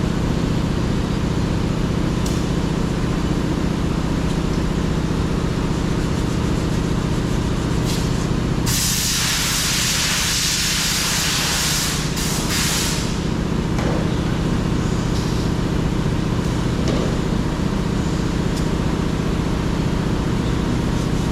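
Steady machine hum throughout, with a loud burst of compressed air hissing for about four seconds starting about nine seconds in, briefly broken near the end.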